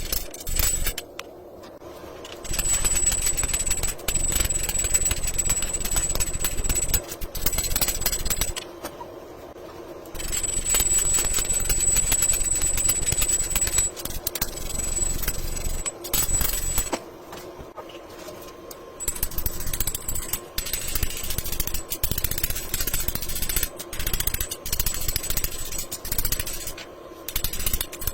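Rapid mechanical hammering on steel in runs of several seconds, broken by short pauses, with a thin high whine under it while it runs.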